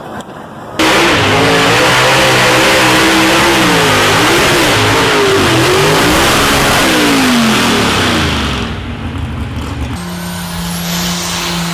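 Pulling tractor's engine running hard under load, its pitch swinging up and down again and again. It drops away near the end, and a steadier, lower engine note takes over.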